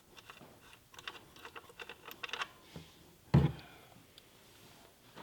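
A series of light clicks and taps, then one heavier thump about three seconds in.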